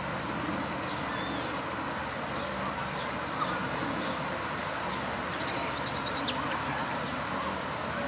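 Birds calling: faint scattered chirps over a steady background hiss, and a little past halfway a loud, rapid trill of about ten high notes lasting about a second.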